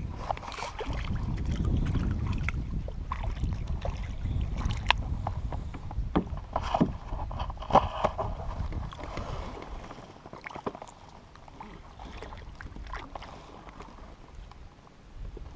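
Scattered knocks and clicks of gear being handled on a fishing kayak, with wind rumbling on the microphone that drops away after about ten seconds.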